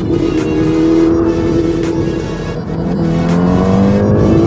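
Kawasaki ZX-10R inline-four engine running under the rider, holding a steady note and then rising in pitch from about three seconds in as the bike accelerates.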